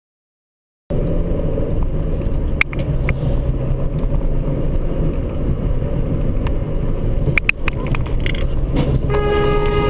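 Steady rumble of a car in traffic, with a few sharp clicks, and a car horn that starts sounding near the end.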